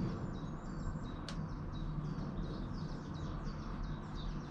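A small songbird chirping quickly and repeatedly, over a steady low background rumble.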